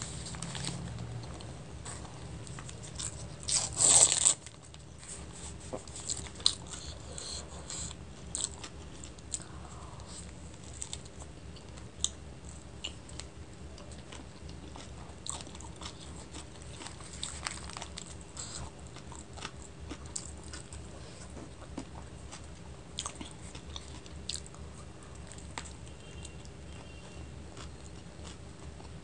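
Close-up eating sounds of a chicken roll, a flatbread wrap: a loud crunchy bite about four seconds in, then steady chewing with many short wet mouth clicks.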